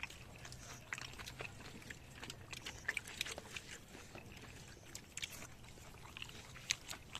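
People eating: chewing, with many small irregular clicks and taps over a faint, steady low hum.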